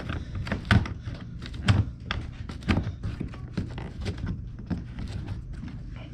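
A run of hard knocks and clicks: a louder thunk about once a second for the first three seconds, then lighter, irregular taps.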